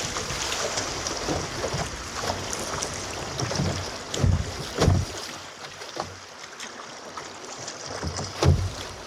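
Canoe running a small swift: steady rushing water with several dull thumps against the hull, the loudest about halfway through and again near the end.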